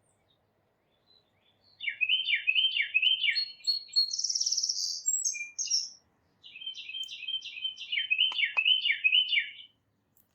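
A songbird singing two songs, each a quick series of repeated down-slurred notes; the first ends in a higher buzzy trill.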